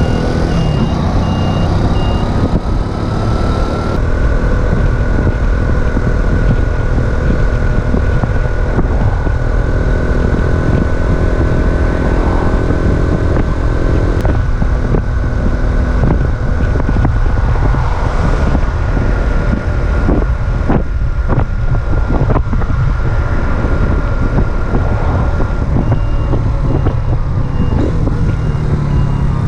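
Racer Alpha RC50 moped's small single-cylinder four-stroke engine pulling at a steady cruising speed, with heavy wind buffeting the microphone. Its pitch climbs over the first few seconds, then holds. A short on-off electronic beeping is heard at the start and again near the end.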